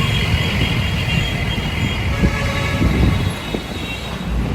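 Street traffic: vehicle engines rumbling, with a steady high whine that fades out about three seconds in.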